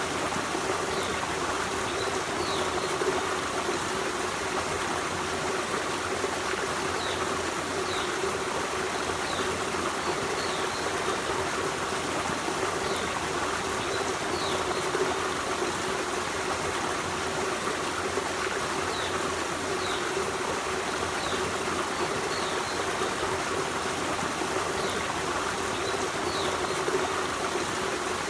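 Forest stream running with a steady rush of water, plus faint short high chirps every second or two.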